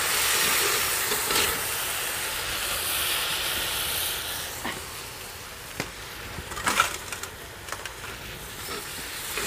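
Onion and garlic paste frying in oil in a kadhai: a steady sizzle, louder for the first few seconds and softer after, with a few light clicks later on.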